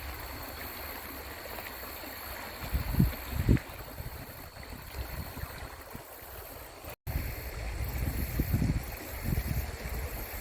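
A salmon stream running over rocks, a steady rush of water. Two dull low bumps about three seconds in stand out above it, and the sound cuts out for an instant about seven seconds in.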